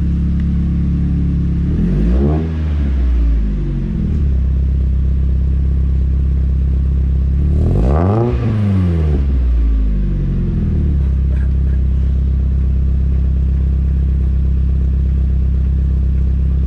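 2000 Mazda MX-5 Miata's four-cylinder engine idling through a new ISR stainless cat-delete exhaust, which the owner says sounds a lot better. It is revved twice, about two seconds in and again around eight seconds in, and each time falls back to a steady idle.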